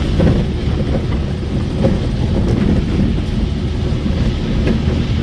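Road noise of a moving vehicle heard from on board: a steady low rumble and hiss, with a few light rattles.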